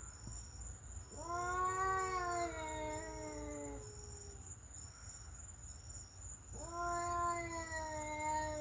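A cat caterwauling: two long, drawn-out yowls, each rising a little and then sagging in pitch. The first runs about three seconds; the second starts near the end and is still going.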